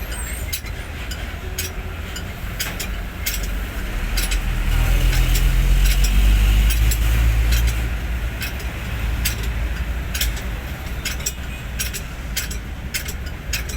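Hino 500 truck's diesel engine running, swelling louder for a few seconds in the middle, with sharp clicks scattered throughout.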